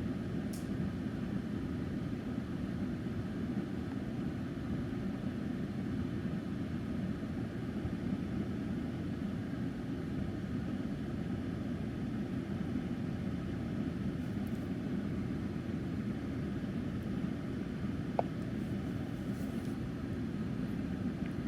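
Steady low rumble of a car heard from inside its cabin, unchanged throughout, with a single short click about eighteen seconds in.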